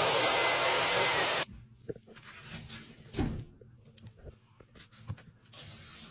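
Vent-cleaning vacuum running with a loud, steady rush of air, cutting off abruptly about a second and a half in. Quiet handling knocks and rubs follow, with one louder thump about three seconds in.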